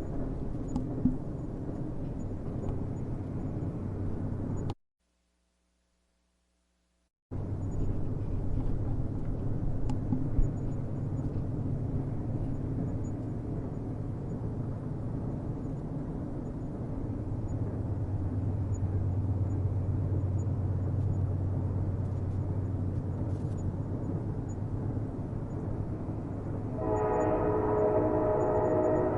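Steady low rumble of a train running on the rails, broken by a couple of seconds of dead silence about five seconds in. Near the end a train horn starts sounding, several tones at once, held steady.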